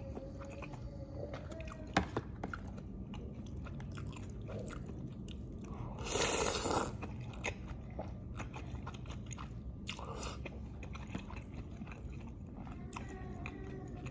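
Close-miked mouth sounds of a person eating lontong with green chilies: chewing with many small wet clicks, over a low steady hum. A louder, noisier bite or slurp about six seconds in lasts about a second, and a shorter one comes near ten seconds.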